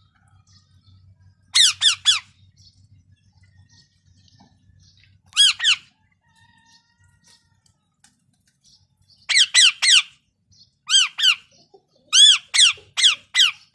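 A parrot calling: short squawks, each rising and then falling in pitch, given in quick runs of two to four with pauses of a few seconds between. The runs come closer together near the end.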